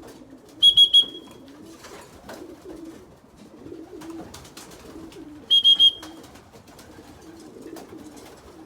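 Racing pigeons cooing steadily, with two sets of three quick, loud, high electronic beeps, about a second in and again at about five and a half seconds: the pigeon electronic timing system clocking returning birds as they cross the trap.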